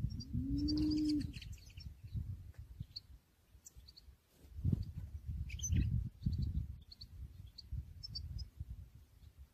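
Small songbirds chirping: scattered short, high calls over a low, gusty rumble. Just after the start a low hum rises briefly, then holds steady for about a second.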